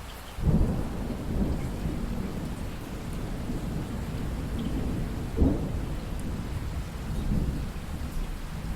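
Steady rain with thunder: a deep rumble sets in suddenly about half a second in and rolls on, with a louder crack about five and a half seconds in.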